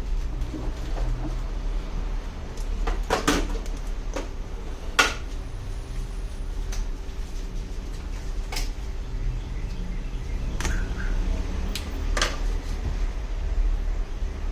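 Scattered sharp knocks and clicks, about six of them and the strongest about five seconds in, over a steady low hum.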